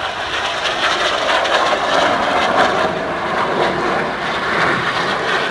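Two BAE Hawk T1 jet trainers flying past in a display manoeuvre, their Rolls-Royce Adour turbofans making a steady, loud jet rush.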